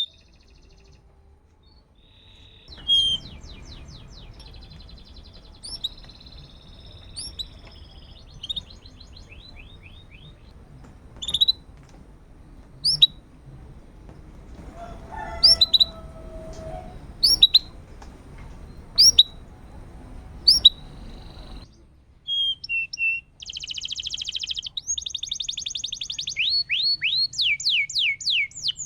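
Domestic canary singing. It starts after a short silence with scattered single chirps over a faint low hum. About 22 seconds in it breaks into loud, fast trills and rapid runs of repeated notes.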